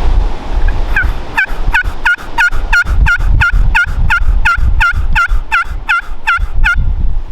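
A long series of turkey yelps, about sixteen evenly spaced notes at roughly three a second, starting about a second in and stopping shortly before the end. Wind rumbles under them.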